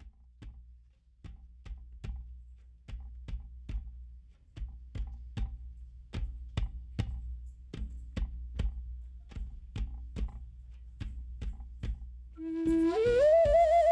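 Hand percussion playing a steady beat in repeating groups of three strikes over a low drone. Near the end an indigenous flute comes in with a note that slides up and is then held.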